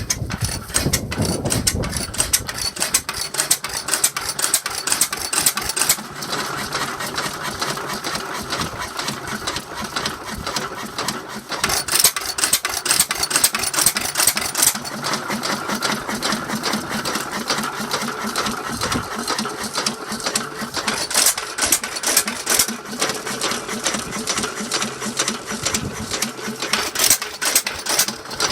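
Stickney 3 hp petrol stationary engine running with a steady, rapid mechanical clatter.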